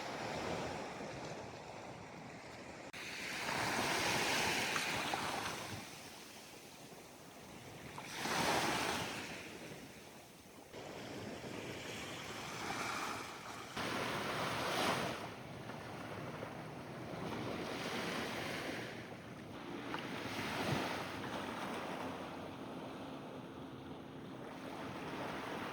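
Sea waves washing onto the shore, each surge of surf swelling and falling away every few seconds.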